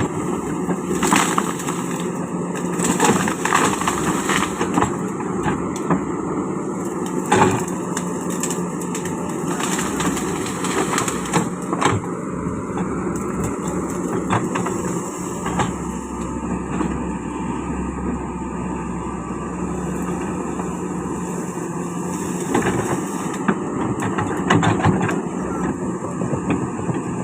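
Kobelco hydraulic excavator's diesel engine running steadily under load while it crawls across a ditch on timber mats, with frequent knocks and clanks from the tracks and mats.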